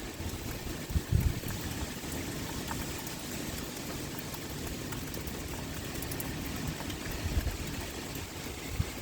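Steady pouring rain with wind. A few brief low thuds stand out, about a second in and again near the end.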